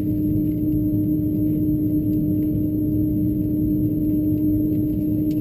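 Steady cabin hum inside an Airbus A330 on the ground, with a constant low drone and a steady low tone from the aircraft's engines and air systems.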